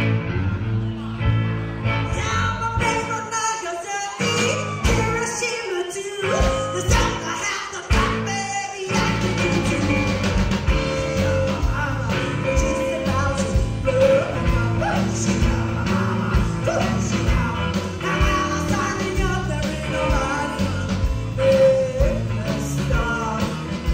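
Live rock and roll band playing with a singer, opening with a run of short stop-time hits separated by gaps, then the full band driving on with vocals.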